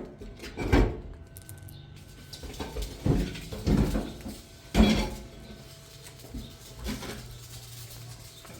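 Several separate knocks and clatters, about five spread over the stretch with quieter gaps between, the loudest a little before the middle.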